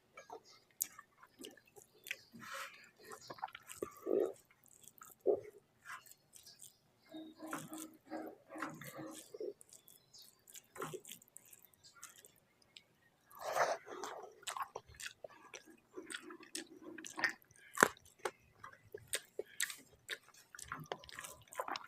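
Close-miked chewing of a mouthful of rice with coriander paste: soft, wet mouth clicks and smacks coming irregularly, in scattered clusters.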